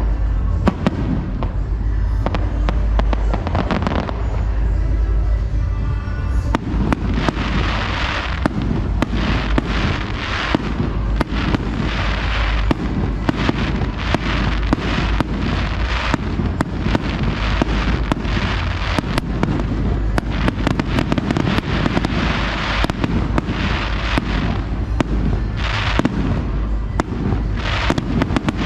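Fireworks display: a continuous run of rapid bangs and crackles over a deep rumbling boom, with music playing alongside.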